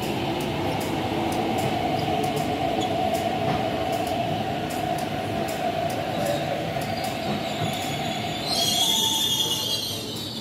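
MTR East Rail line R-train electric multiple unit pulling into a station, a steady running hum and tone from the train, turning to a high-pitched brake squeal about eight and a half seconds in as it slows to stop.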